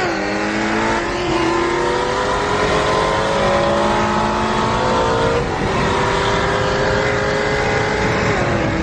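Car engine at full throttle in a street race, pulling hard and climbing slowly in pitch, with a sharp drop at each upshift: shifts come right at the start, about three and a half seconds in, about five and a half seconds in, and near the end.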